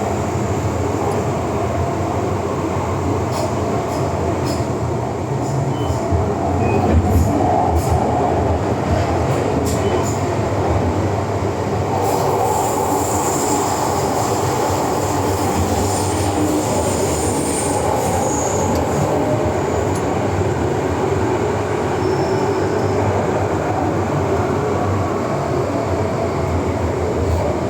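Inside an MTR M-train (Metro-Cammell electric multiple unit) running through an underground metro tunnel: a steady rumble of wheels on rail with running noise. About halfway through, a high wheel squeal sounds for several seconds.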